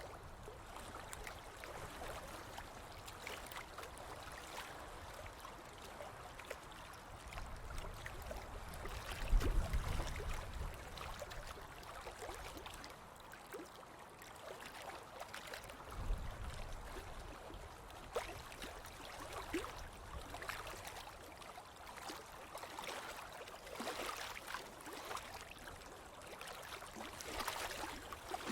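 Ocean waves washing on a beach: a steady soft wash of water with small crackles, and two louder low surges, one about a third of the way in and one a little past halfway.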